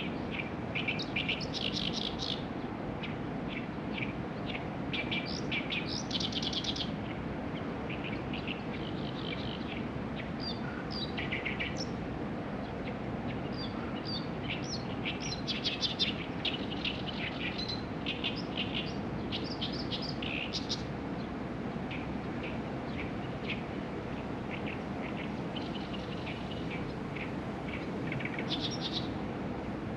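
Small songbirds chirping and twittering outdoors: many short, high notes in quick runs, coming and going throughout, over a steady low background hiss.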